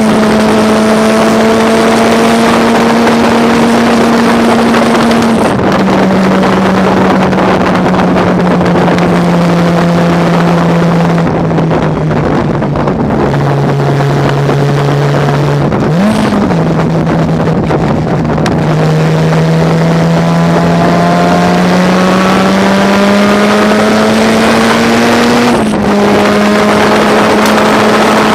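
Mazda rotary race engine running hard with a steady, high-pitched note. Its pitch drops at a gear change about five seconds in and sags lower, jumps briefly just past halfway, then climbs steadily to another drop near the end.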